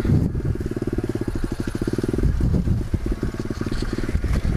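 Pit bike's small single-cylinder engine running while riding, a rapid, even train of firing pulses.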